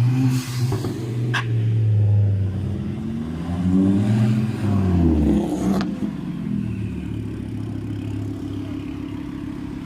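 Performance car engine revving, its note rising and falling several times, with two sharp cracks, about a second and a half in and near six seconds in, then settling to a steadier run.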